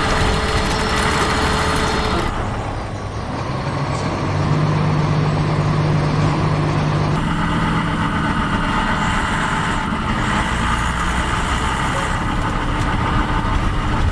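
Heavy truck or machinery engine running steadily, its tone shifting about two seconds in and again about seven seconds in.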